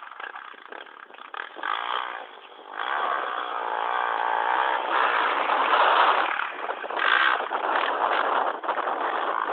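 Motocross bike engine revving and accelerating, with pitch rising and falling through the gears; quieter for the first couple of seconds, then louder from about three seconds in.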